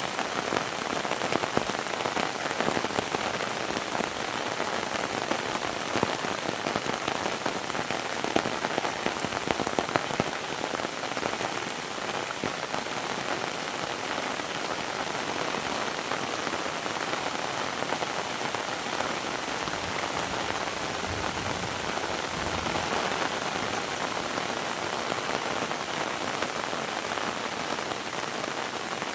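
Heavy rain falling steadily, a dense hiss with many sharp, loud drop impacts through the first ten seconds or so, then evening out into a smoother downpour.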